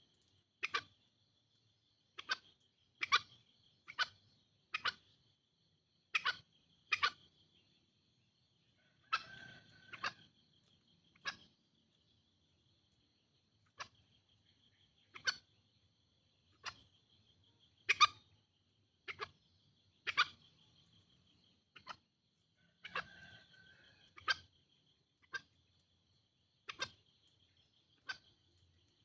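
Green junglefowl calling: a long series of short, sharp calls, roughly one a second at uneven intervals, with a couple of longer, rougher calls among them, over a steady high-pitched buzz.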